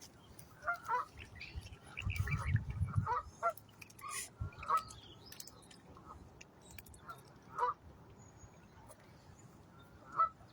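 Geese honking in short, scattered calls, several close together early on and single calls every second or two after that. A low rumble runs beneath them for about a second, two seconds in.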